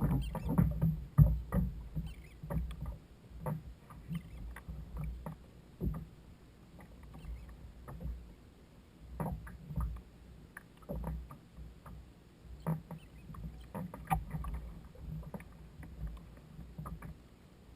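Water sloshing against a fishing kayak's hull, with irregular small knocks and clunks, more of them and louder near the start.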